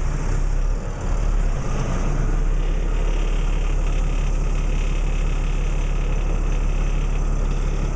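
A tow truck's engine running at a steady idle, a constant low hum.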